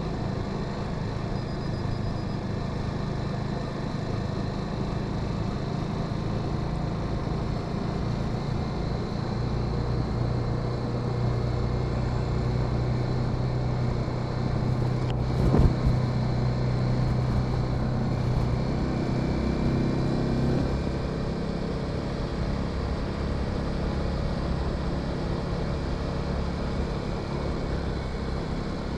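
Motorcycle engine running steadily while riding, its low note firming up for several seconds in the middle. A single short thump comes about halfway through.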